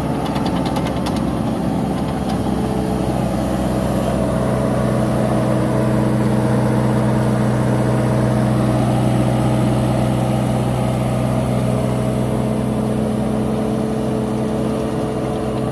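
Caterpillar 955 crawler loader's diesel engine running steadily, its pitch lifting slightly about four seconds in and then holding, with a short run of rapid clicks near the start.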